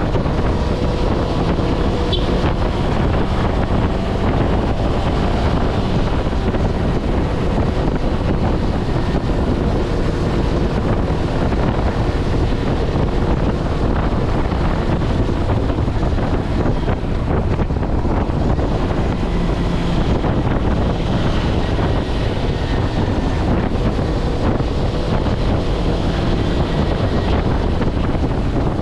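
Wind buffeting the action camera's microphone during a motorcycle ride, over the Kawasaki Versys-X 250's parallel-twin engine running at a steady, slowly shifting note.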